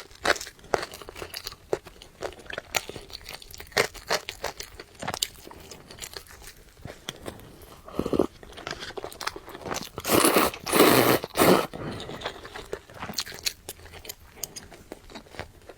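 Close-up eating sounds: steady chewing with many short crunchy bites, and a louder, longer noisy stretch a little past the middle.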